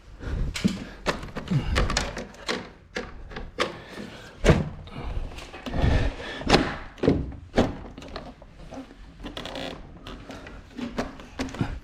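Irregular knocks, thuds and handling noises from hands working at an air conditioner indoor unit and the wall around it.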